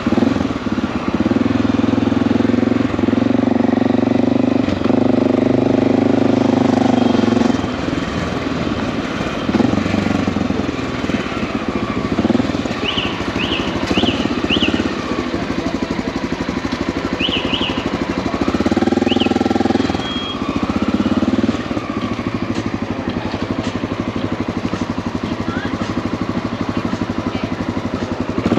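Motorcycle engine running while riding, its note rising and falling with throttle changes, with a few short high chirps in the middle.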